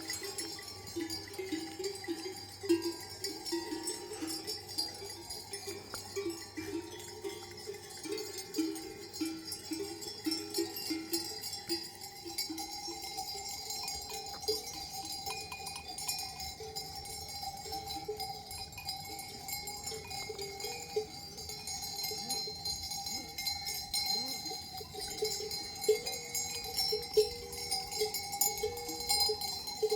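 Livestock bells on a flock clanking and jingling irregularly, many small strikes with short ringing tones.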